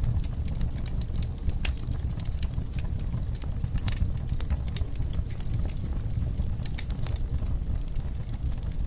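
Wood fire burning in a fireplace, crackling with irregular sharp pops and snaps over a steady low rumble of flame.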